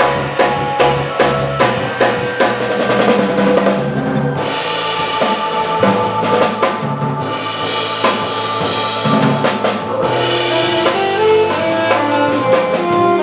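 Jazz organ trio playing live: a drum kit with snare and bass drum hits over organ, with a steady low organ bass line. About four seconds in the drumming thins out while sustained organ chords and melody lines carry on.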